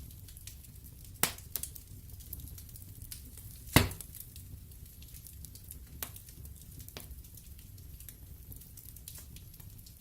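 Wood fire burning in a fireplace: crackling logs over a low steady rumble, with two sharp pops, the louder one nearly four seconds in.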